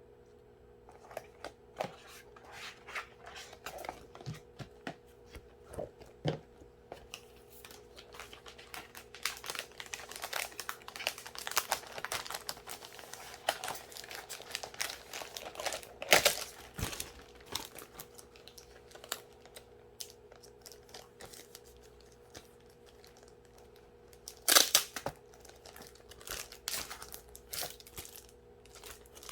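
Packaging being handled and torn open by hand: a long run of crinkling and tearing with small snaps, a louder snap about 16 seconds in, a brief lull, then another loud crackle near the end.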